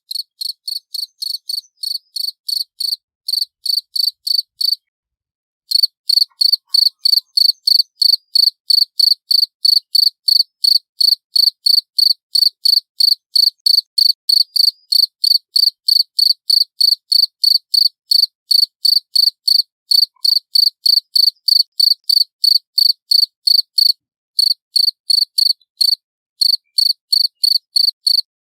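Cricket chirping loudly and clearly in a steady rhythm of about three high-pitched chirps a second, pausing briefly about five seconds in.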